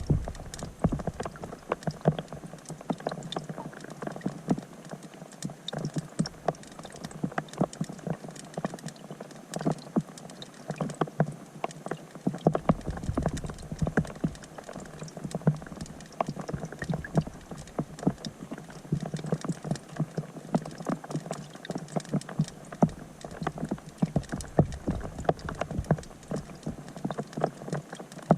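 Rain falling on a pond, heard through a submerged GoPro's waterproof housing: a dense, irregular patter of sharp ticks and plinks as the drops strike the surface.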